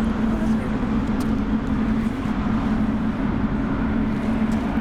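Steady airport jet noise: aircraft engines running at a distance, a continuous low hum with a rumble beneath it.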